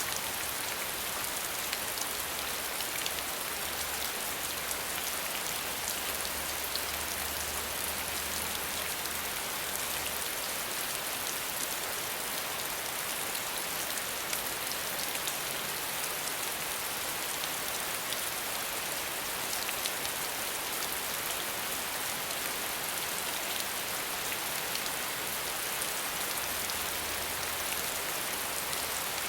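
Steady rain falling, a constant hiss of many fine drops, with no thunder.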